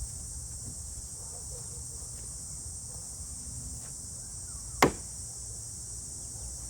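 Steady high-pitched chorus of insects, with one sharp knock a little under five seconds in.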